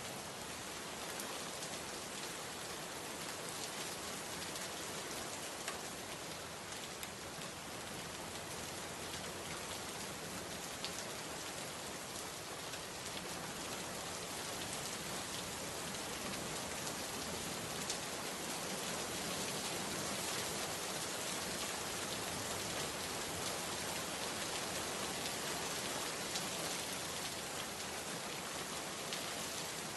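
Steady rain falling, an even hiss of many drops with the odd louder drip.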